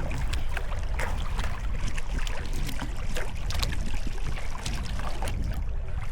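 Sea kayak paddle dipping and splashing, with water trickling and dripping off the blades, over a steady low rumble.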